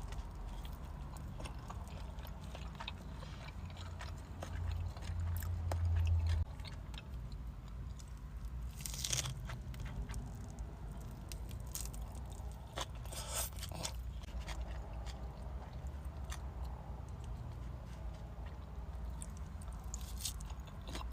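A person biting and chewing sushi rolls, with crunches and scattered small clicks and a couple of louder noisy bursts near the middle.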